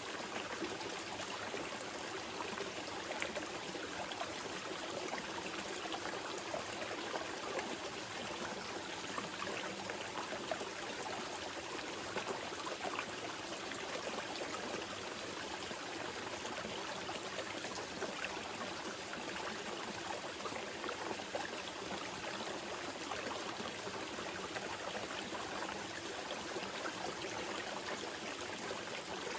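Small mountain river flowing steadily over rocks: an even rushing with fine trickling and gurgling detail.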